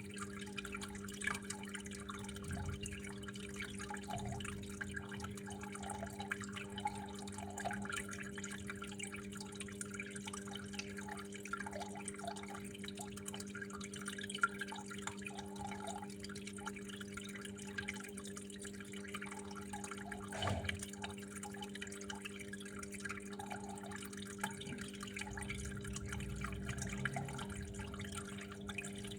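Water trickling and dripping in irregular small splashes over a steady low hum.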